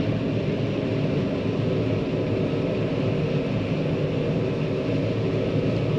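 John Deere 9500 combine running steadily while shelling corn: an even engine and machinery drone, heard from inside the cab.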